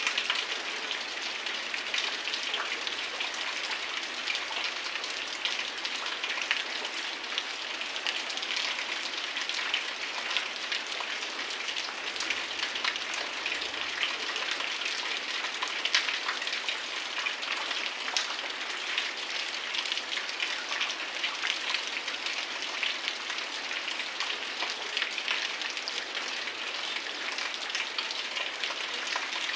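Heavy rain falling steadily, a dense hiss with many close, crisp drop impacts pattering throughout.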